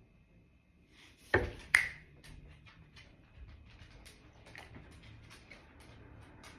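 Two sharp knocks about a second in, close together, then faint scattered clicks and ticks.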